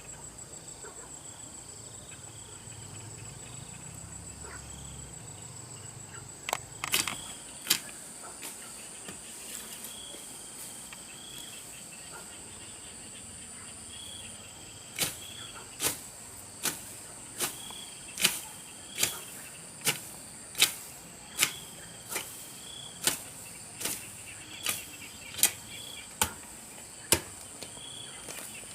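Hand tool chopping into grass and soil: a few strikes about seven seconds in, then steady strokes a little faster than one a second from about halfway through. A steady high insect trill runs underneath.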